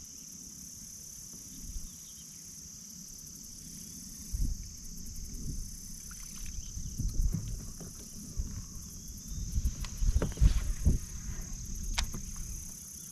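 Steady high-pitched drone of insects calling, with irregular low rumbles and a few sharp knocks from about four seconds in, loudest near the end.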